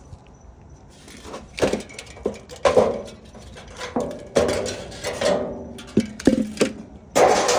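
Irregular clicks, knocks and scraping of hard plastic and metal parts being handled and pulled off a refrigerator's freezer evaporator assembly. The sound starts about a second in, and the loudest knock and scrape come near the end.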